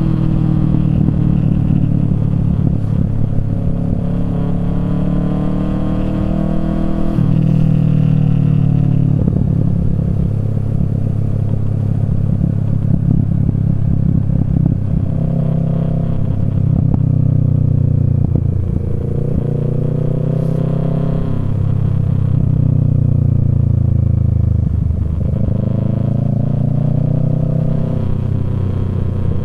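Kawasaki Z650 parallel-twin engine breathing through a Yoshimura Alpha aftermarket exhaust, heard while riding. The revs rise and fall several times, with a sudden jump in pitch about seven seconds in.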